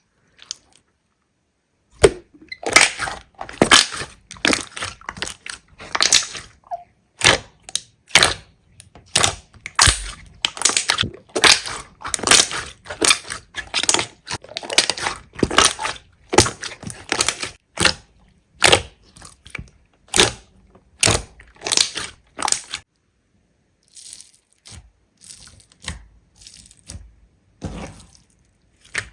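Slime being squeezed and pressed by hand, giving a quick run of short, crisp crunches. It starts about two seconds in and turns fainter and sparser over the last several seconds.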